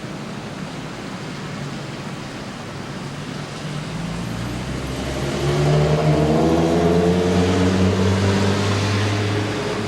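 Steady rain hiss with a car driving past. Its engine hum builds from about four seconds in, is loudest over the second half, and drops away near the end.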